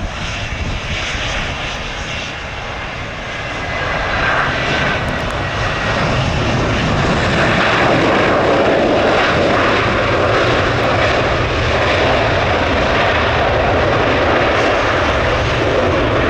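Jet airliner engines, a dense roar that grows louder about four seconds in and then holds loud and steady. Wind buffets the microphone underneath.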